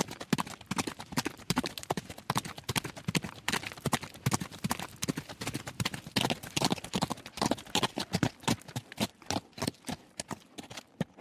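Horse galloping fast on gravel: a quick, uneven run of hoofbeats crunching into loose stones, several strikes a second, which stops abruptly at the end.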